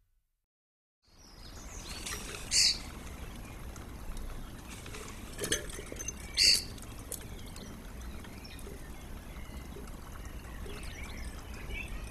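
Garden ambience from a webcam microphone starting after a second of silence: a steady low background rumble with short, high bird calls, two of them loud and sharp, the first about two and a half seconds in and the second about six and a half seconds in.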